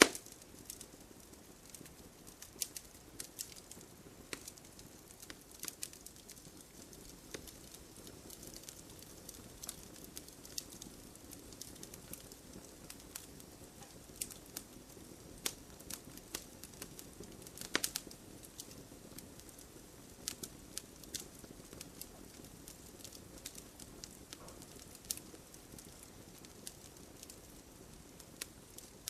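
Wood campfire burning, crackling with irregular sharp pops and snaps over a soft low hiss, and one louder pop about two thirds of the way through.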